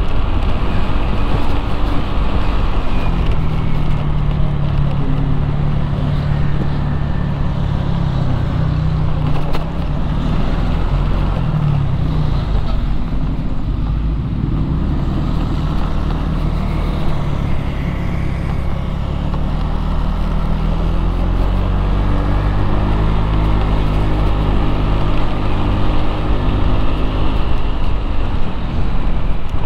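Motorcycle engine running while being ridden in traffic, its note shifting up and down with the throttle, over a steady rumble of road and traffic noise.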